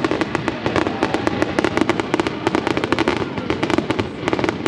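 Fireworks display: a dense, unbroken string of bangs and crackling, several reports a second.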